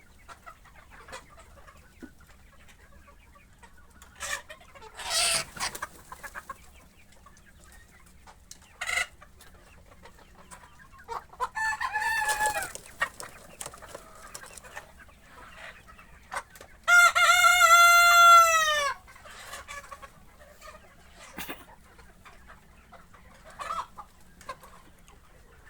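Sonali chickens clucking and calling here and there. A rooster crows once about seventeen seconds in: a long, loud call that holds steady and then drops in pitch as it ends.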